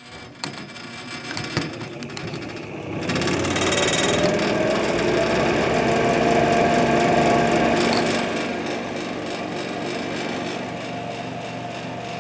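Switch click, then a vintage 1970s Leigh bathroom exhaust fan motor starting up and running with a steady hum and a rough vibration, the motor vibrating on startup. It builds up about three seconds in and eases slightly after about eight seconds.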